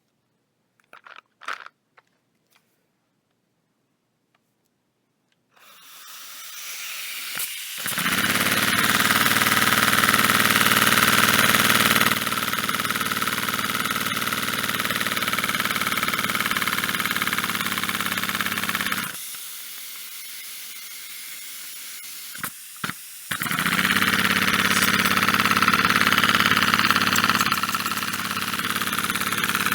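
LEGO pneumatic engine running on compressed air: a loud, steady hiss of air through the valve with an even running hum under it, starting about five seconds in after a few small clicks. It eases off for a few seconds past the middle, then comes back up to full speed.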